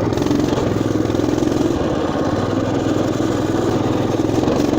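Motoland RT200 mini off-road motorbike engine running steadily while riding, with an even pulsing note at a constant throttle.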